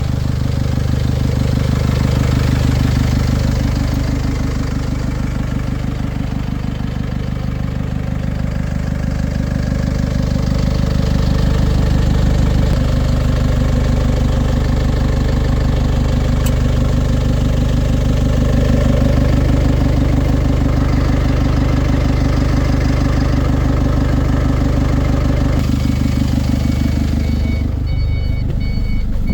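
IVECO Eurocargo 80E16 truck's diesel engine idling steadily, its note changing slightly twice. Near the end a reversing alarm starts beeping evenly.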